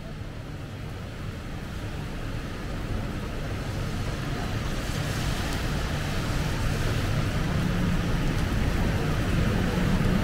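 Heavy rain hissing on the pavement over the low rumble of city road traffic, the whole growing steadily louder.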